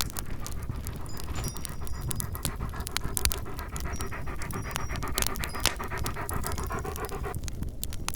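A dog panting rapidly and rhythmically, stopping about a second before the end, over the scattered pops and crackles of a wood fire in a fireplace and a low, steady rumble of storm wind.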